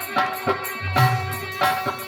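Instrumental passage of Indian folk music: held melodic notes over a steady hand-drum beat of about two strokes a second.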